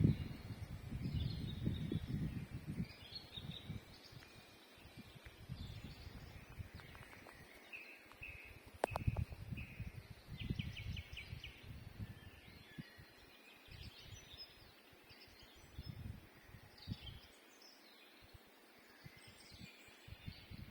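Several songbirds singing and chirping in the open, with a short rapid trill about ten seconds in. A low rumble comes and goes underneath, strongest in the first few seconds.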